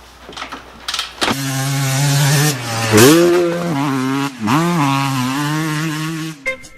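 Husqvarna TC 125 two-stroke dirt bike engine running at a steady high speed, its pitch dipping and coming back up twice, then cutting off suddenly near the end.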